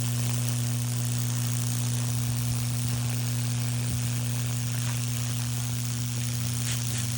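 High-voltage transformer of a Lichtenberg fractal wood-burning rig humming steadily, with the sizzling hiss of current burning through the wooden board. A few faint crackles come near the end.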